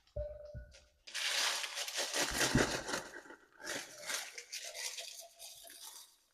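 Crinkling and rustling handling noise, with a couple of short knocks.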